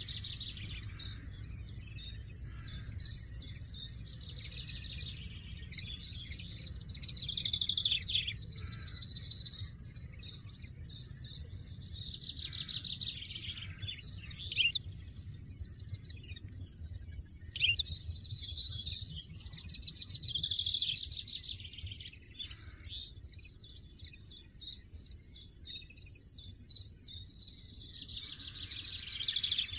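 European goldfinches twittering: rapid high chatter and trills in bursts of a few seconds each, with a steady low rumble underneath.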